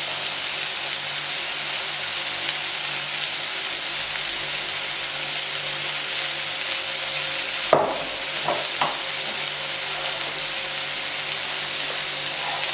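Meatballs and chopped vegetables sizzling steadily as they fry in a pan, with one sharp knock about eight seconds in.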